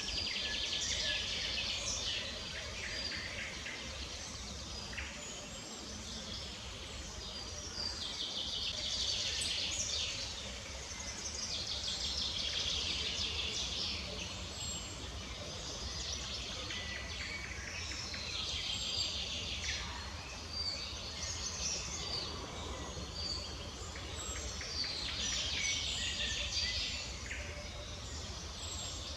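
Small birds singing in the background, dense chattering song phrases coming every few seconds, over a steady low rumble.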